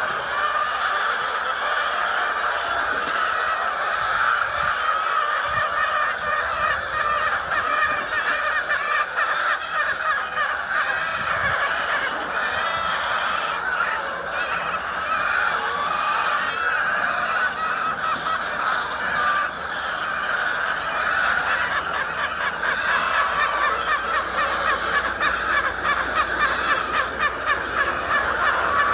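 A large flock of chickens calling and clucking without a break, many voices overlapping into a steady din.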